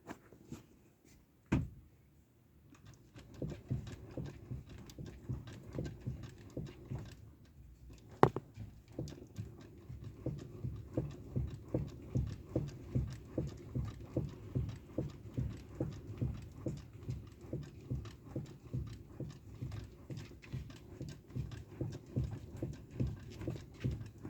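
Honda Life Dunk steering gearbox knocking: a fast run of dull clunks, about two to three a second, with two sharper, louder knocks early on and about eight seconds in. This is the abnormal noise from the steering gearbox.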